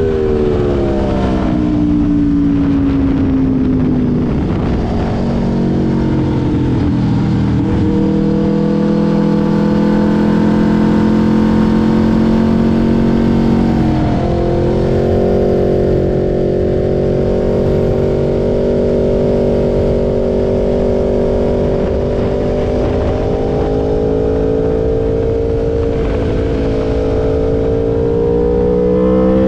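2022 Aprilia RSV4's V4 engine running at speed through an SC Project S1 titanium exhaust, heard onboard. The engine note falls over the first few seconds as the bike slows. It then holds fairly steady, with a short dip about a quarter of the way in and a brief break near the middle, and climbs again near the end as the throttle opens.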